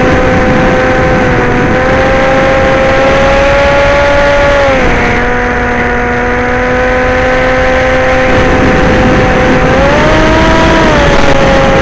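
Electric motor and propeller whine of a radio-controlled model aircraft in flight, over steady air rush. The whine holds a steady pitch, drops as the throttle eases about five seconds in, then swells up briefly near the end before settling back.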